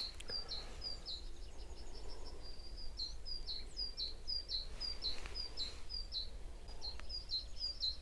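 A small songbird singing a fast, repetitive run of short high chirps, about two to three a second, with a brief break about two-thirds of the way through.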